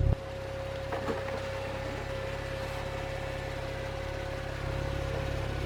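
Porsche 911 Turbo's 3.8-litre twin-turbocharged flat-six engine dropping back from a louder run to a steady idle right at the start, with a faint steady tone over the low engine note.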